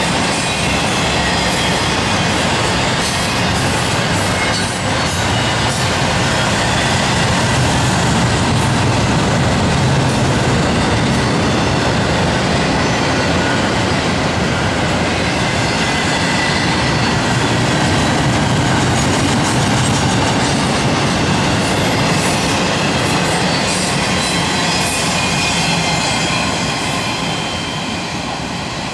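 Double-stack intermodal freight cars rolling past close by: a steady rumble of steel wheels on the rails with a faint high wheel squeal. The sound fades over the last couple of seconds as the end of the train passes.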